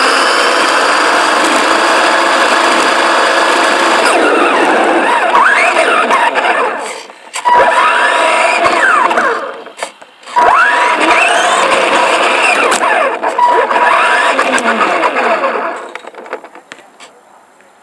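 RC car's motor whining at speed along with the rattle of its running gear, the whine rising and falling in pitch as it speeds up and slows. It drops out twice for a moment in the middle and dies away near the end.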